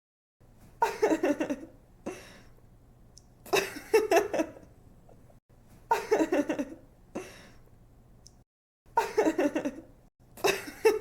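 A young woman laughing in giggly bursts: five short runs of quick "ha" pulses, each about a second long, a couple of seconds apart.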